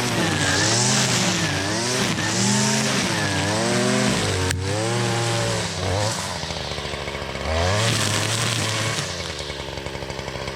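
Gas string trimmer (weed eater) with a string head cutting tall grass and weeds, its small two-stroke engine revving up and down about once a second, then holding higher for longer stretches. A sharp click comes about halfway through.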